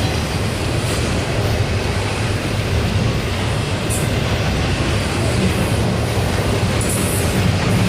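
Double-stack intermodal freight train rolling past, its wheels on the rails making a steady rumble.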